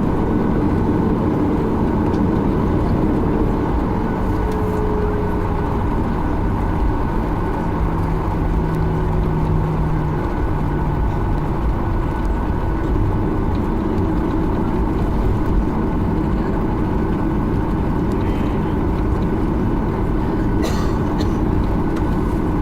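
Cabin noise inside a Boeing 737-800 taxiing after landing, its CFM56-7B engines at idle: a steady hum and rumble with faint held tones, one sliding down about five seconds in, and a faint click near the end.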